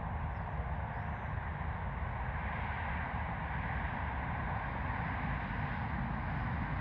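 Jet airliner engines at an airport, a steady rumble with a faint whine that swells slightly a few seconds in.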